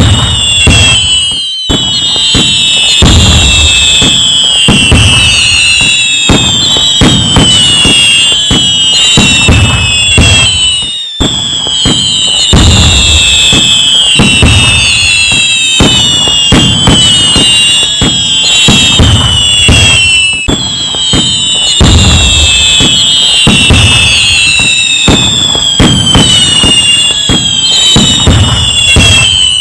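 Loud, dense fireworks barrage: many whistling rockets, their whistles falling in pitch, over continuous crackling, bangs and low booms. The same stretch seems to repeat about every nine seconds, with a brief dropout before each repeat.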